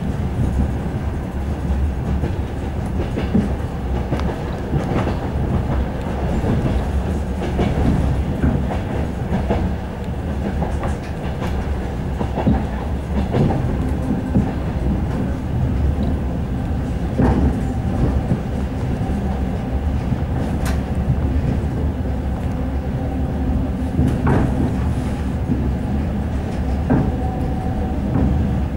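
Moving commuter train heard from inside the carriage: a steady low rumble with the wheels clicking over rail joints at irregular intervals.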